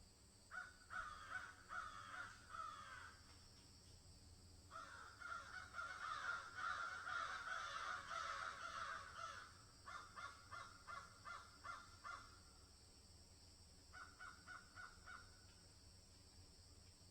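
Birds calling in bursts of quick repeated notes: several overlapping calls through the middle, then short runs of about four notes a second near the end.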